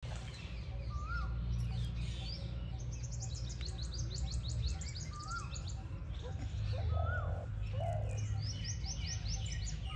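Birds calling: two rapid runs of high, downward-sweeping chirps, about ten a second, and a short whistled note that rises and falls, heard about three times. A steady low rumble lies underneath.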